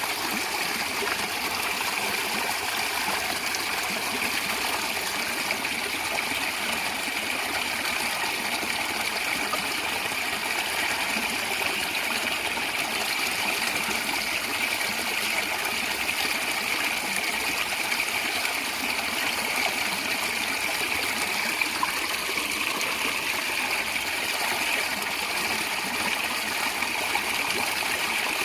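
Natural stream water flowing and gurgling steadily over stones.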